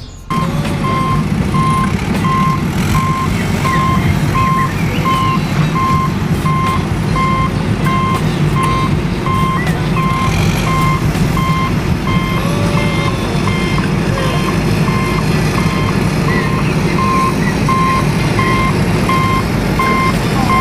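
Truck reversing alarm beeping steadily about twice a second over a steady engine rumble.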